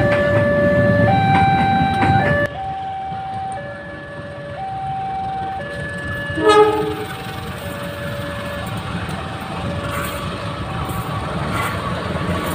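Level-crossing warning alarm alternating between two tones, each held about a second. A heavy train rumble under it cuts off sharply about two and a half seconds in. A short train horn blast sounds about halfway, and train noise builds again near the end.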